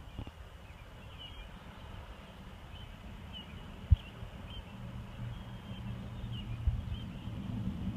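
Outdoor ambience: small birds chirping over a low rumble, with one sharp low thump about four seconds in and a steady low hum building in the second half.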